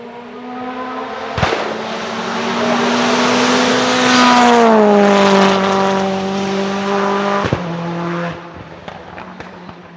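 Lancia Delta HF Integrale hillclimb car's turbocharged four-cylinder engine at high revs passing by. It grows louder, drops in pitch as it goes past and then fades away. Two sharp bangs, about a second and a half in and again near the end of the pass.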